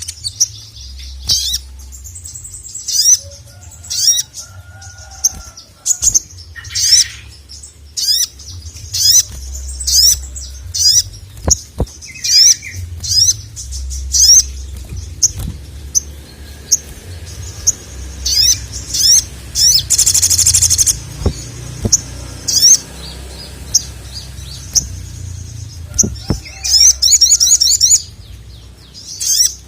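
Sogon (sogok ontong sunbird) singing hard: quick, high-pitched chirps repeated over and over, with a fast rattling trill about twenty seconds in and another burst of rapid notes near the end.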